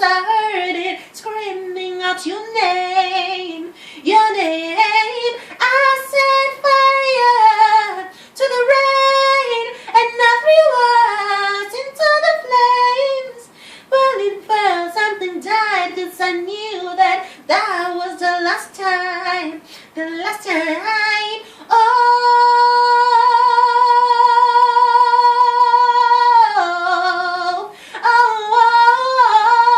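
A female voice singing unaccompanied, in quick melodic runs with one long held note about two-thirds of the way through.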